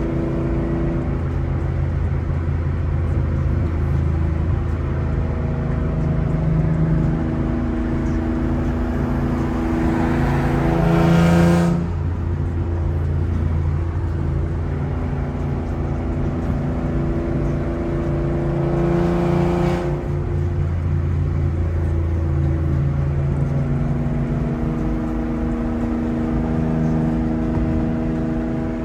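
Car engine and exhaust running at a steady cruise, swelling twice as the car accelerates, about 11 and 19 seconds in, and each time dropping off suddenly as the driver shifts or lifts off.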